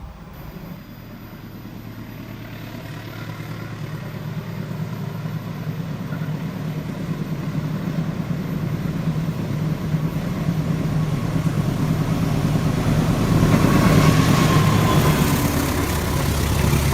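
Diesel locomotive approaching, its engine drone growing steadily louder and peaking near the end.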